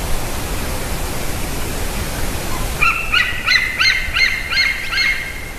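An eaglet calling nearby: a series of about seven short, repeated, slightly falling chirps, about three a second, starting near the middle, over a steady background hiss.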